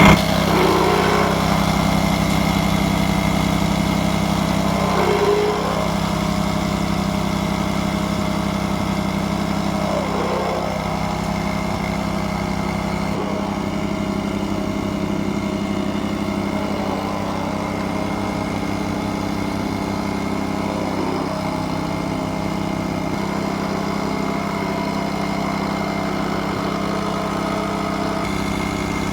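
Small engine of a plate vibrator (plate compactor) running steadily as it compacts concrete, with a constant drone that eases slightly about five seconds in.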